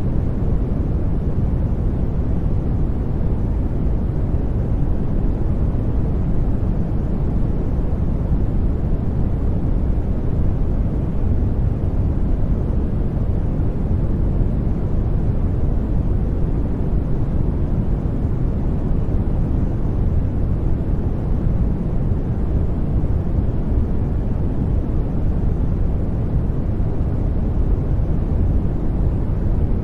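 Steady generated noise, a deep, even rush with most of its weight low down and only a little hiss on top. It never changes.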